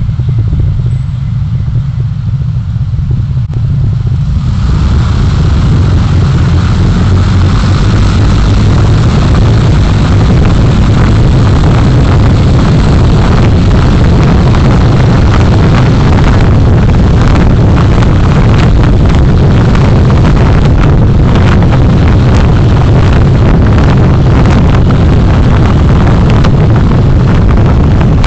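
A road vehicle under way: a steady low rumble of engine and road noise. About four seconds in, a loud rush of wind on the microphone rises over it and stays, gusting.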